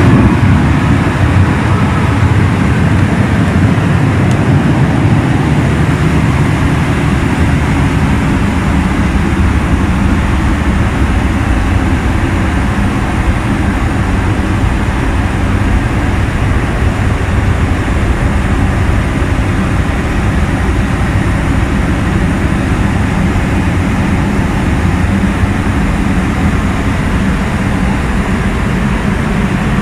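Steady aircraft cabin noise inside a Boeing 737-800 airliner: a constant low rumble with a hiss over it.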